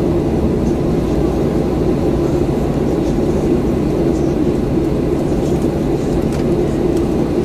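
Steady low cabin rumble inside a Boeing 737-900 on the ground, even throughout with no rise or fall.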